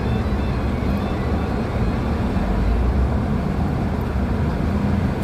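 Heavy dump truck's diesel engine running steadily, a deep rumble with a steady low hum.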